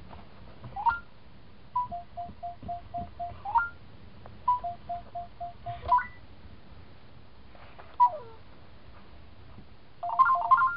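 Sony Aibo ERS-210 robot dog playing its electronic tone sounds. It gives two runs of five short, even beeps, each ending in a rising chirp, then a single falling glide, and a quick flurry of beeps near the end.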